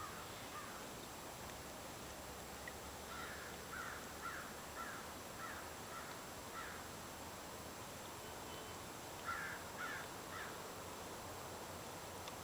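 A bird calling in a series of short, evenly spaced calls, about six in a row, then three more near the end, over faint steady background hiss.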